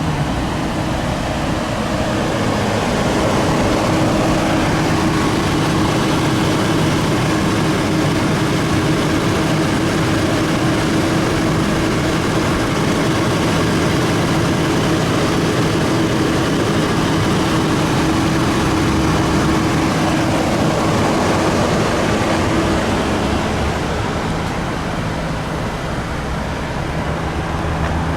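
2015 Lexus NX 200t's 2.0-litre turbocharged inline-four running, a steady mechanical noise with a constant hum.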